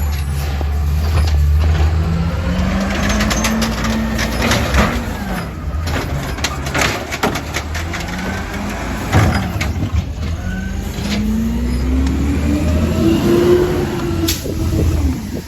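Compost collection truck's engine running, revving up and back down twice, the second time higher, with clanks and knocks throughout.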